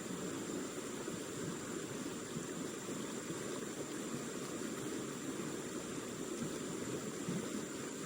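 Steady rushing water, even and unbroken throughout.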